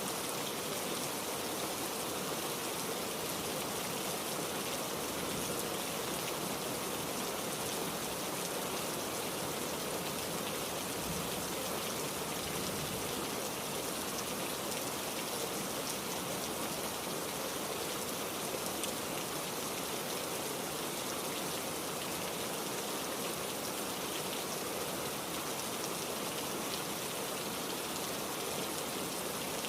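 Heavy rain falling steadily, an even dense hiss of raindrops with no change in strength.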